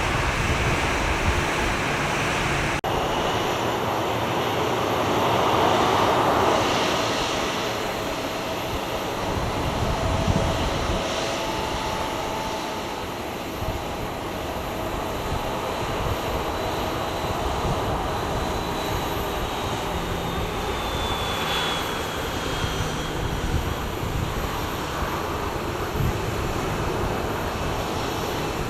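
Jet airliner engines running steadily, with a faint high whine that slowly falls in pitch past the middle.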